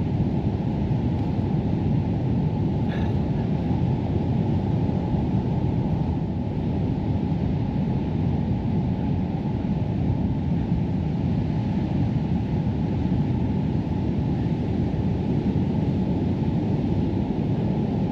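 Steady low rumble of surf and wind on a sandy beach.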